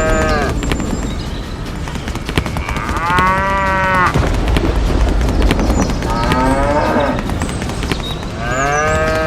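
Cattle mooing, four drawn-out calls of about a second each that rise and fall in pitch, over a steady low rumble.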